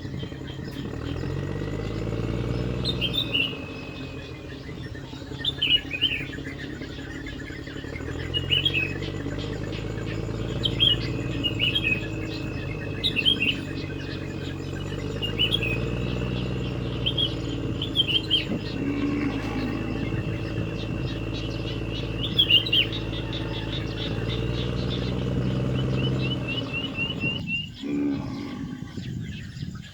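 Birds chirping in short calls every couple of seconds, over a low steady hum, with all of it cutting off abruptly near the end.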